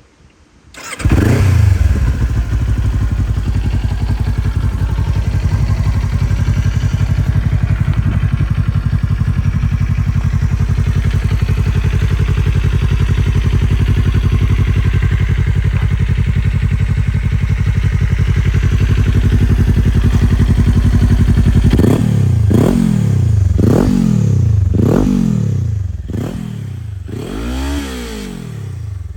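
Kawasaki Ninja 400 parallel-twin engine with an Akrapovic exhaust starting about a second in and idling steadily. Near the end it is revved in a series of about five quick throttle blips, each rising and falling in pitch.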